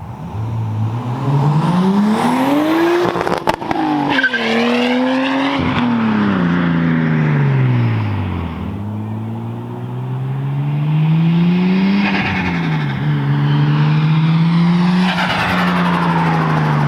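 Nissan Skyline R34 GTT's turbocharged 2.5-litre RB25 straight-six pulling hard through the gears, the engine note rising, dropping at each shift and rising again. There is a short rattling burst about three and a half seconds in, where the throttle lifts. This fits the turbo flutter (compressor surge) that comes from the blocked-off blow-off valve.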